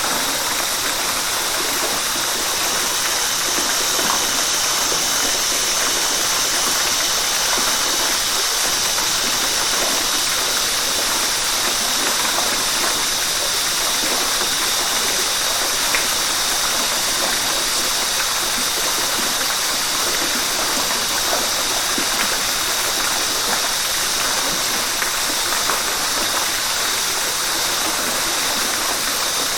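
Flowing river water rushing steadily and evenly, a constant unbroken hiss of water.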